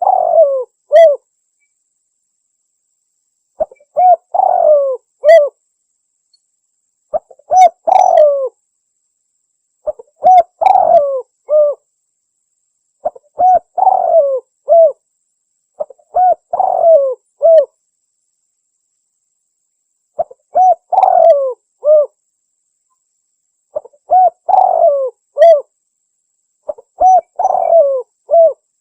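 Spotted dove (tekukur) cooing: a short phrase of several coos, repeated about every three and a half seconds with silence between. It is the dove's song used as a hunting lure call.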